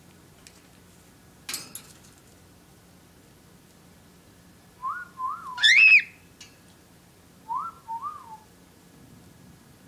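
Pet bird whistling: two short rise-and-fall notes, then a louder upward-sweeping whistle, then two more short notes. A brief click or rustle comes early on.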